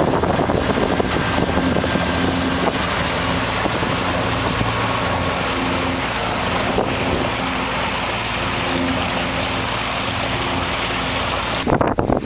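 A boat's engine running steadily under a loud rush of wind and water noise. The sound breaks off abruptly near the end.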